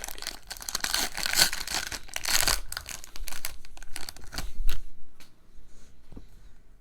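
Plastic-foil booster pack wrapper being torn open and crinkled: dense, crackling rustles that stop about five seconds in, leaving a few faint clicks.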